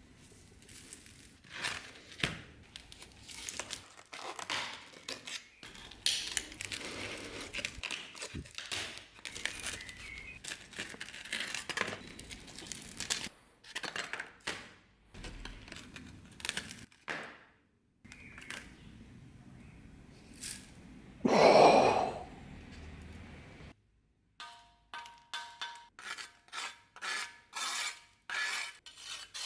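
Hand-tool work on an old knife: irregular scraping, tearing and knocking, with one louder scrape about three quarters of the way through. Near the end it turns to even back-and-forth rasping strokes, about two a second.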